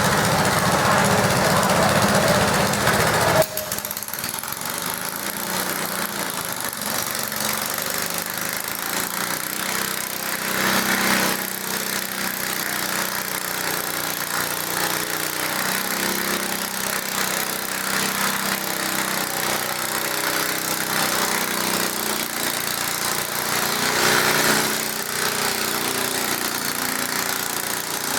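Garden tractor engines running. The engine sound is loud for the first few seconds and cuts off suddenly, then continues steadier and quieter, swelling briefly twice.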